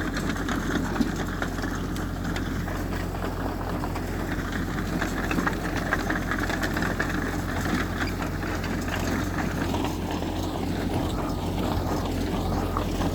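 Heavy diesel earthmoving machinery running steadily, a continuous low engine drone with small scattered knocks over it.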